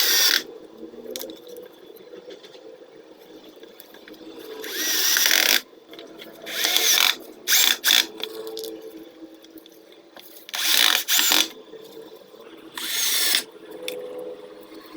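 A power tool run in short bursts of about half a second to a second, six or so times, over a steady low hum.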